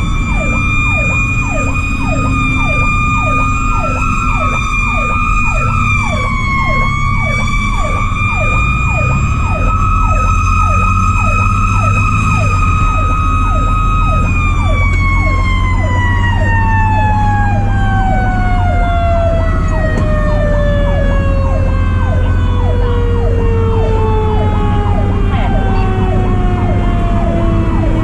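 Fire truck's Federal Q mechanical siren screaming at a steady high pitch, then winding down in a long falling glide from about halfway through. An electronic siren keeps running on a fast yelp over it, with the truck's engine rumbling underneath.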